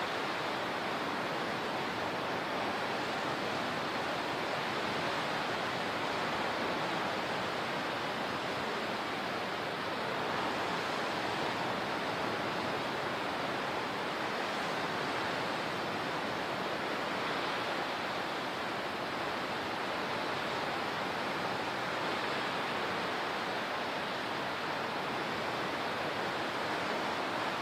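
Steady rushing water, an even wash of noise with no distinct swells or breaks.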